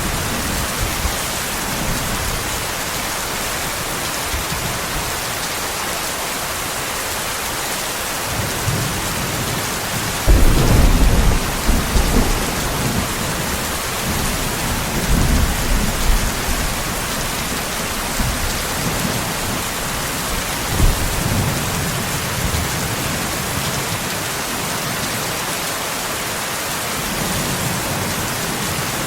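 Steady rain with thunder. A rumble sets in suddenly about ten seconds in and rolls for a couple of seconds, and weaker rumbles follow a few seconds and about ten seconds later.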